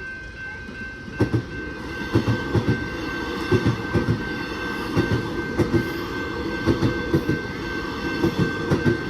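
Electric suburban train passing over a level crossing, its wheels clattering over the rail joints in a run of uneven knocks that starts about a second in. A steady high tone from the crossing's warning bell sounds throughout.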